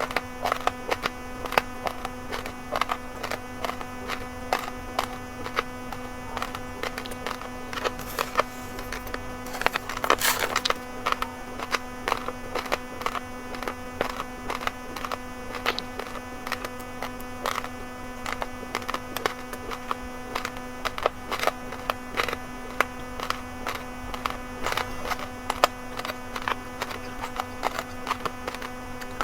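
Raw rice grains crunched and chewed close to the microphone: many sharp, irregular crackles, with a denser rustling burst about ten seconds in, over a steady electrical hum.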